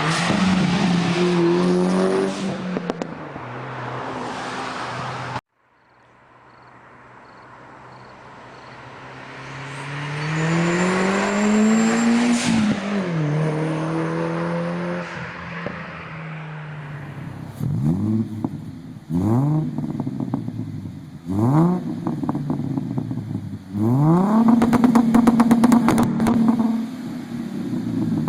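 Performance car exhaust in three stretches: an engine running until a sudden cut about five seconds in; then an engine accelerating, its pitch rising to a peak and falling away; then quick sharp revs, the last one held high for a few seconds.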